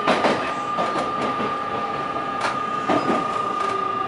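817 series electric train heard from inside its front car while running, its wheels clicking over rail joints a few times above a steady high whine.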